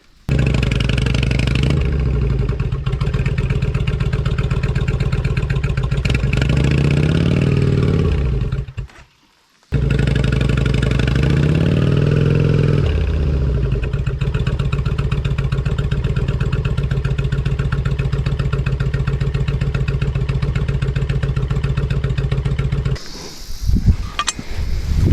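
Kawasaki Nomad cruiser's V-twin engine running with the bike stuck in soft mud, revving up twice as it is worked to get the bike free. The sound breaks off for about a second near the middle. Near the end the engine stops and a few sharp clicks and clatter follow.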